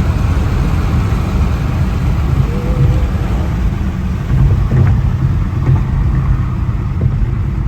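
Steady low rumble of a car on the move, heard from inside the cabin: the 2019 Infiniti Q50's twin-turbo 3.0-litre V6 running, mixed with road noise.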